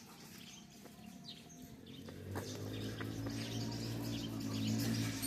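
Small birds chirping with short high calls. From about two seconds in, a steady low droning hum rises under them and grows louder.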